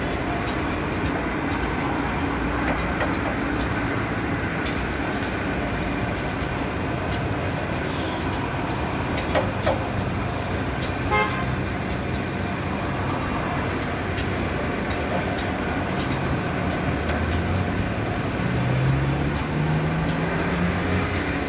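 Busy street traffic noise with vehicles running, a short horn toot about eleven seconds in, and an engine rising in pitch near the end.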